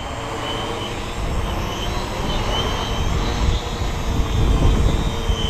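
Quadcopter's electric motors and propellers buzzing with a steady pitch as it hovers, with wind buffeting the microphone.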